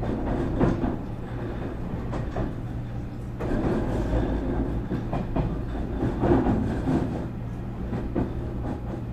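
Nankai 8300-series train standing at the platform with its onboard equipment giving a steady low hum, under irregular knocks and clatter.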